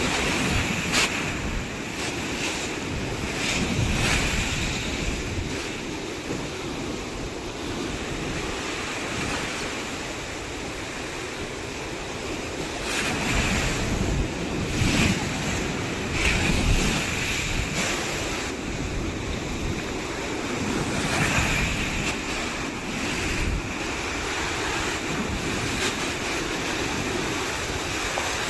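Ocean surf washing onto a sandy beach in a continuous wash of noise, swelling louder as waves break a few times, with wind rumbling on the microphone.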